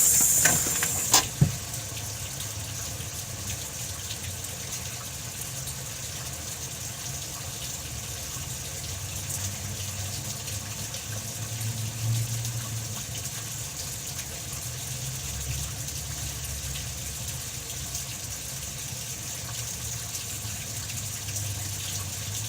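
Steady rain falling, an even hiss that holds throughout, with a few sharp knocks in the first second or so.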